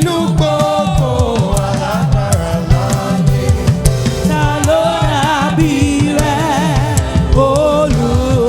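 Live gospel praise music: a choir singing held notes with vibrato over a band with drum kit and a moving bass line.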